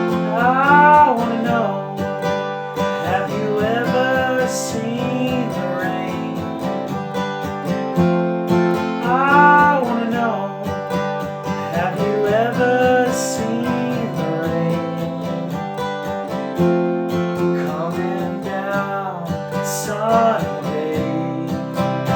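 Acoustic guitar strummed in a steady rhythm, with a voice singing a melody without clear words over it now and then.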